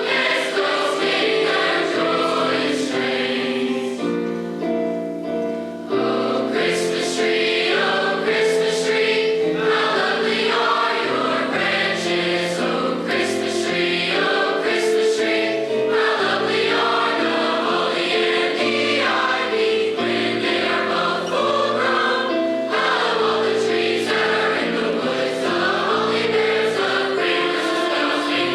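High school choir singing, with a brief softer, thinner passage about four seconds in before the full choir comes back in about six seconds in.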